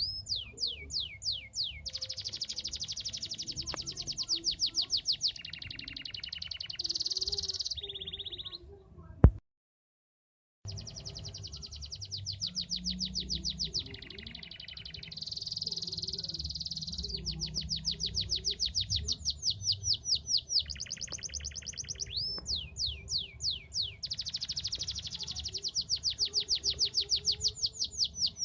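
Domestic canary in full song: long, fast trills of rapidly repeated notes, some as falling sweeps, switching to a new phrase every second or two. A sharp click about nine seconds in is followed by a second or so of silence before the song picks up again.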